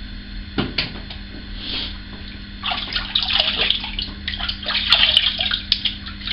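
Water running from a sink tap and splashing, irregular and busier from about three seconds in, as in rinsing the face after a shave.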